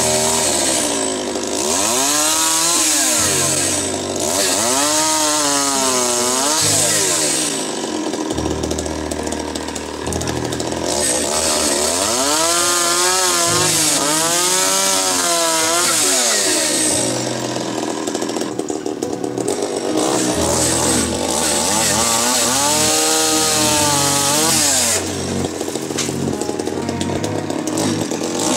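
A small petrol engine labours under load while wood is cut or shredded. Its pitch sags and recovers again and again, with a hiss of cutting wood over the top.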